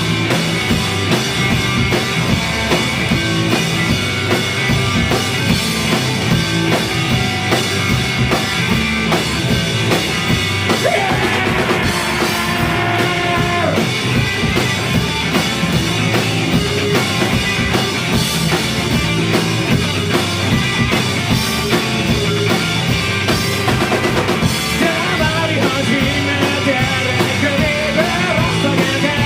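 Rock band playing live at full volume: a drum kit keeping a driving beat under bass and electric guitars, with a few sustained, wavering melodic notes over the top.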